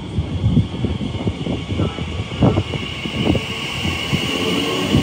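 Elizabeth line Class 345 electric train running into the platform close by, with a rumble and knocking of wheels on rail. A steady high whine comes in about halfway through.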